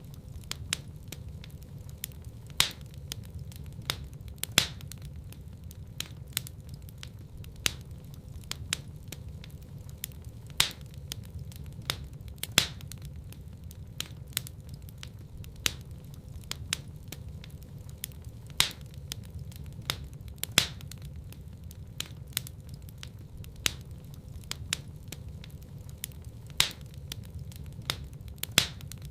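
Wood fire crackling in a fireplace: many sharp pops and snaps, the loudest every couple of seconds, over a steady low rumble of the burning fire.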